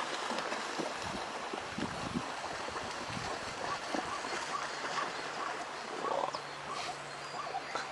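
A herd of wildebeest grunting over and over, many short calls overlapping, over the steady rush and splash of water at a river crossing.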